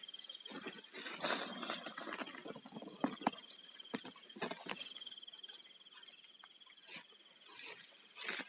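A cricket-like insect trilling: a steady, fast-pulsed high note during the first second and a half and again for about three seconds near the end. Short sharp clicks and rustles come throughout.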